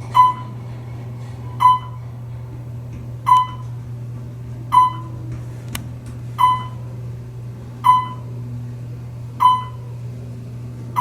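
Otis elevator's electronic chime dinging over and over, a single-pitched ding roughly every second and a half, each one fading quickly. A steady low hum runs underneath.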